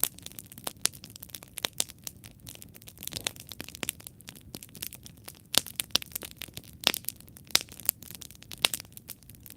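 Wood campfire burning, crackling with irregular sharp pops and snaps over a soft hiss of flame.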